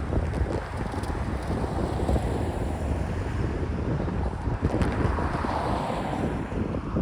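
Freight train rolling past through a grade crossing: a steady low rumble with irregular clatter of steel wheels on the rails, and wind buffeting the microphone.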